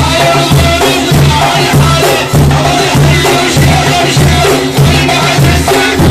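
Sufi dhikr: a man's voice chanting over a steady beat of deep frame-drum strokes, a little under two a second.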